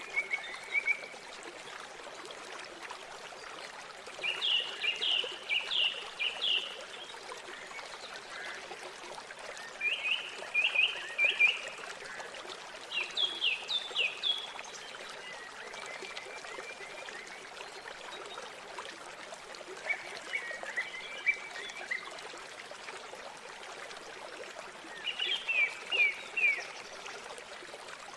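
River water flowing steadily, with a songbird singing short phrases of quick falling notes over it, about six phrases a few seconds apart.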